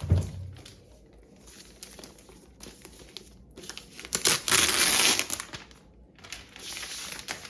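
Packaging of an Apple Mac mini being handled and opened, crinkling and rustling in irregular bursts that are loudest about four to five seconds in.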